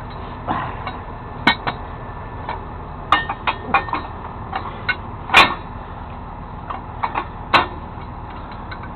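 Irregular metal clanks and clinks of steel towing gear being handled while hooking up a truck for a tow. A cluster of knocks comes about three seconds in, and the loudest clank about five seconds in.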